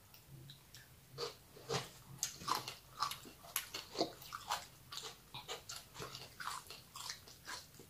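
Close-up chewing of shredded green mango salad: irregular wet crunches and mouth smacks, a few a second, starting about a second in.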